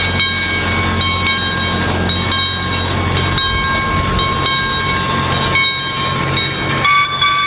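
Small park ride train running, with a low steady hum, a high metallic squeal from the wheels on the rails and regular clicks of the rail joints. The squeal jumps higher about seven seconds in, then fades as the train comes to a stop.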